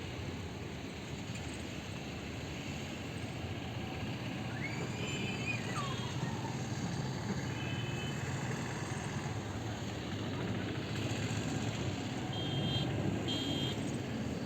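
Steady rumble of jet aircraft flying over the air show, growing slowly louder, with two short high beeps near the end.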